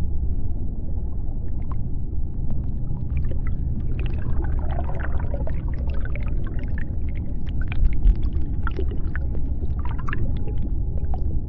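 Underwater ambience of the sea bottom: a steady deep rumble with scattered sharp clicks. About four seconds in, and again near the end, comes a spell of wavering higher-pitched calls.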